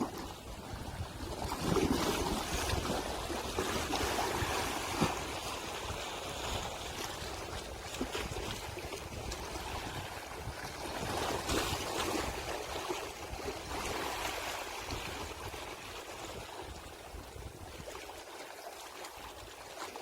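Sea waves washing onto the shore, swelling and ebbing, loudest a couple of seconds in and again around the middle.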